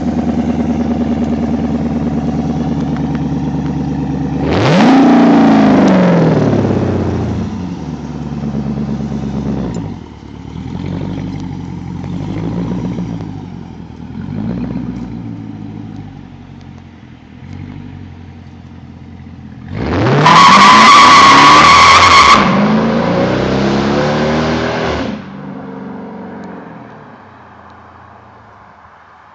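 Dodge Charger R/T's 5.7-litre HEMI V8 through a custom exhaust, idling and then revved: one sharp rev about four seconds in, a string of short throttle blips, then a bigger rev held for a couple of seconds before dropping back toward idle.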